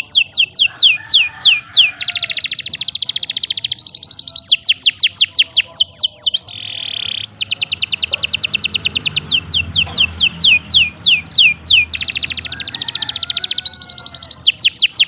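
Domestic canary singing a long, unbroken song: rolls of repeated falling whistled notes, three or four a second, alternating with fast, even trills, and a brief buzzy phrase about seven seconds in.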